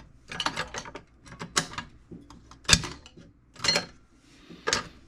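Clicks and rattles of a toolbox's spring-loaded mechanism being worked by hand during a repair, in about five separate short bursts roughly a second apart, the sharpest a little under three seconds in.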